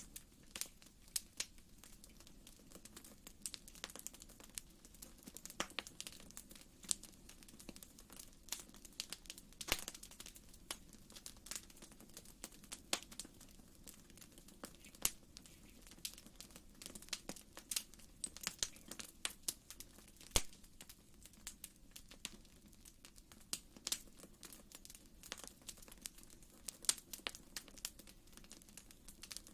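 Fire in a fireplace crackling: frequent irregular sharp pops and snaps over a faint, steady low rush of the flames, quiet overall.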